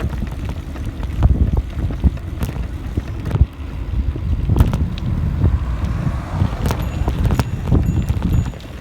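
Wind buffeting the microphone of a camera riding along on a moving bicycle, a low gusting rumble, with scattered sharp clicks and knocks.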